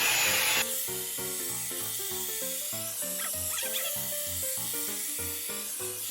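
One Step hair dryer brush blowing on high, cut off suddenly about half a second in. After that only background music is left, a melody of short, evenly paced notes.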